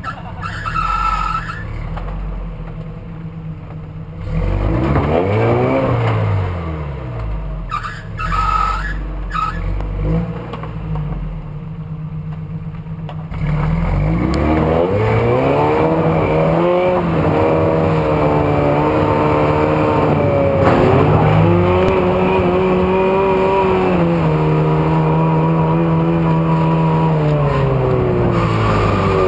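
Toyota 4x4's engine revving under load, its pitch climbing and dropping repeatedly while it crawls up a rocky waterfall climb. It gets louder about halfway through and holds high revs, easing up and down.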